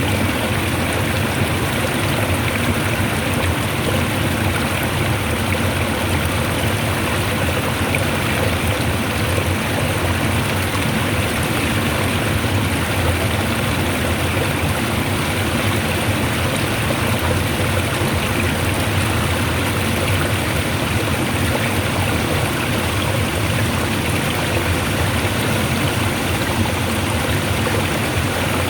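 Water rushing strongly and steadily, an even, unbroken sound.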